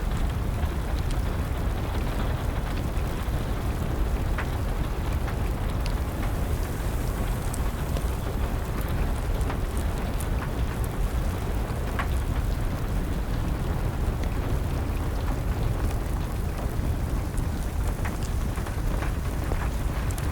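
Steady rain with a crackling fire: an even, low rumbling hiss broken by scattered sharp pops and snaps from the burning wood.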